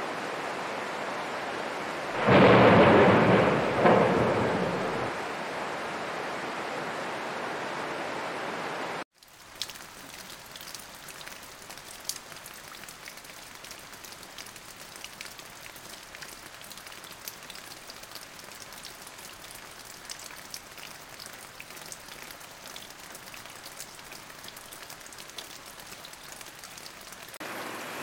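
Steady heavy rain, with a thunderclap about two seconds in that rumbles and fades over about three seconds. About nine seconds in, the sound cuts to lighter, closer rain falling on leaves, full of distinct individual drop ticks. Near the end it turns to louder, denser rain again.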